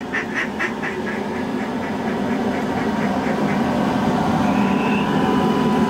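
A run of duck quacks, about four a second, growing fainter over the first few seconds, over a steady low rumble.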